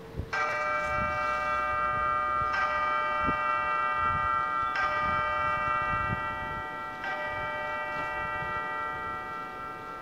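Background music of bell-toned chimes struck four times about two seconds apart, each chord ringing on into the next.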